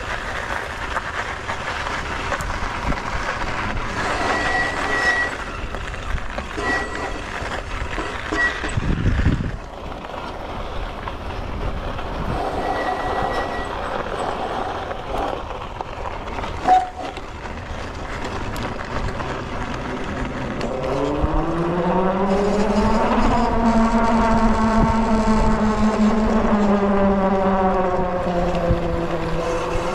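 Freego X2 electric dirt bike riding over rough ground: a rattling, rushing noise with a single sharp knock about halfway through. About two-thirds of the way in, a loud whine rises in pitch and then holds.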